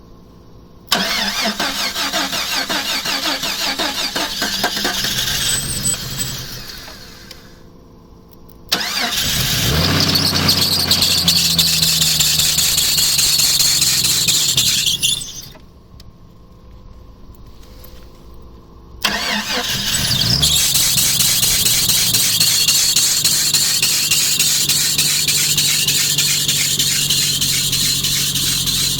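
Jeep Cherokee being cold-started in three tries. The first two bursts of cranking and engine noise die away after several seconds; the third catches and keeps running, with a high-pitched note over the engine.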